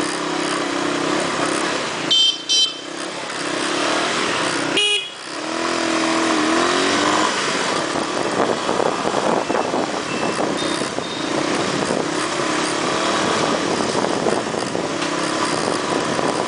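Dense motorcycle traffic: engines running steadily, with horns honking briefly about two seconds in and again about five seconds in.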